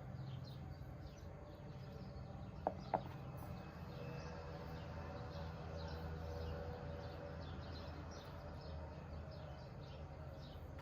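Faint bird chirps, short and repeated many times, over a low steady hum, with two sharp clicks about three seconds in.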